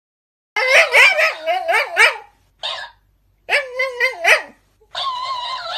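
A dog whining and yelping in a run of high, wavering vocalisations that come in four bursts with short pauses between them, starting about half a second in.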